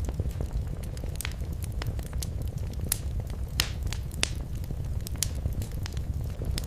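Wood fire crackling in a fireplace: a steady low rumble of the burning fire with irregular sharp pops and snaps, a few louder ones about three and four seconds in.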